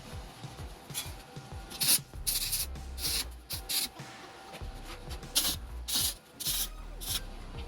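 Arc tack welds being struck on rusty galvanized steel mesh: a series of short, irregular bursts of hiss.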